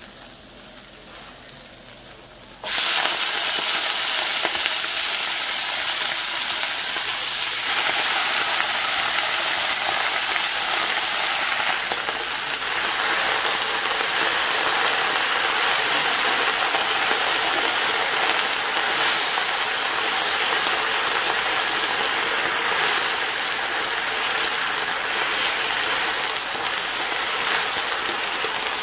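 Minced garlic and ginger sizzling quietly in hot oil. About three seconds in, a sudden loud, steady sizzle begins as a pan full of pea tips hits the hot oil and fries.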